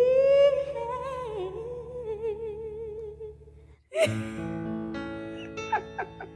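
A woman's voice sings a wordless note that slides up, then is held with vibrato and a short run of ornaments, over sustained electric keyboard chords. Just before four seconds in, the music cuts out for a moment, then the keyboard chords come back.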